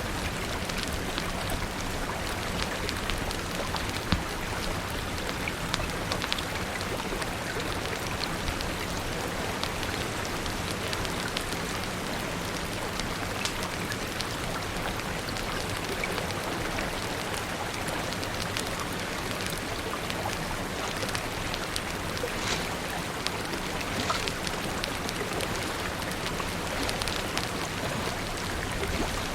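Steady rain falling, with scattered sharp pops and crackles of a wood fire.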